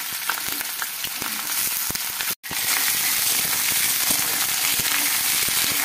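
Pointed gourd (parwal) pieces sizzling in hot mustard oil in a kadhai, with scattered clicks of a spatula stirring them against the pan. The sizzle breaks off for a moment about two and a half seconds in, then comes back a little louder.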